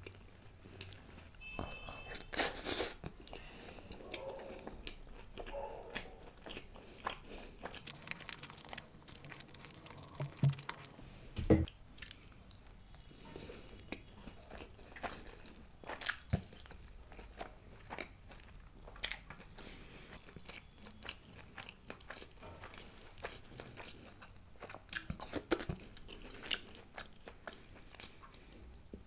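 Close-miked chewing and biting of a person eating mutton curry with rice and naan by hand, with many scattered short mouth clicks. The sharpest click comes about eleven seconds in.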